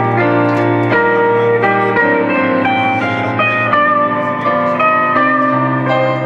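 Live band playing an instrumental passage: sustained lead guitar notes over bass and keyboard.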